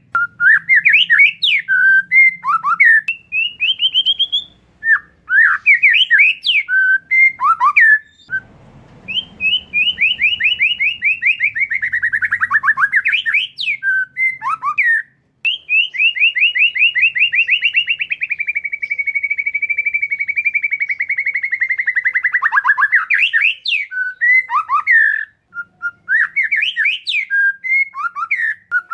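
Oriental magpie-robin (kacer) singing at full volume: varied whistled phrases and sweeping chirps, with a long run of fast, rapidly repeated notes about halfway through. This is the loud, varied song of a bird in top singing form, used to provoke other kacers into singing.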